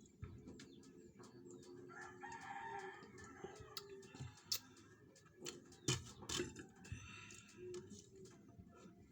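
A rooster crowing in the background, one drawn-out call about two seconds in and a shorter one near the end. Sharp clicks and knocks come throughout, loudest around the middle.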